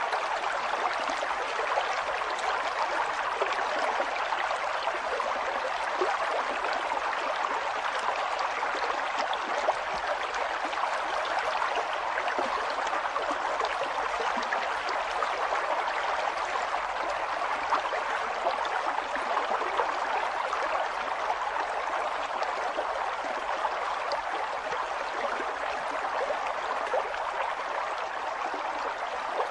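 River water flowing and gurgling over stones, a steady rushing babble.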